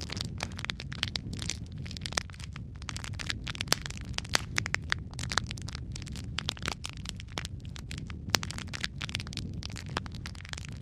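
Wood fire burning in a fireplace: logs crackling with frequent sharp pops and snaps over a steady low rumble of the flames.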